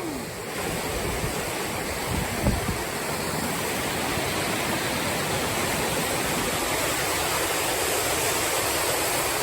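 Steady rushing of Pelverata Falls, a waterfall, as even unbroken white noise.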